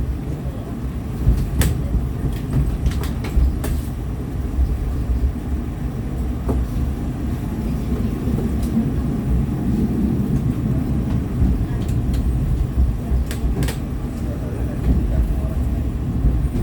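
Low steady rumble of the KA Ranggajati passenger train running on the rails, heard from inside a carriage, with a few short sharp clicks and knocks scattered through it.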